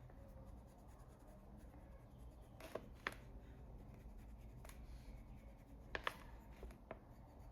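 Faint scratching of a coloured pencil shading on paper, with a few short, sharper strokes or taps around three and six seconds in.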